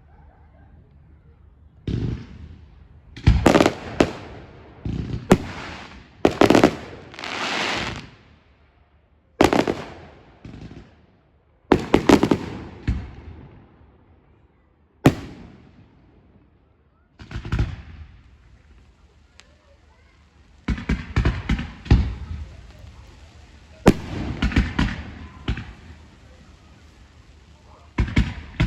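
Fireworks display: loud aerial shell bangs at irregular intervals, several trailing off in a crackle. A quick run of crackling pops comes about two-thirds of the way in.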